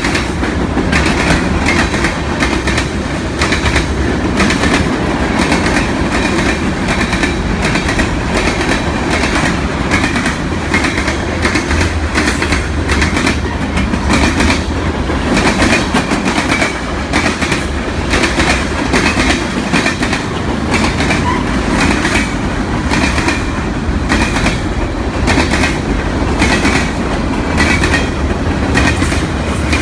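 Freight cars of a long train rolling past at steady speed: a continuous loud rumble with regular clickety-clack of wheels over the rail joints.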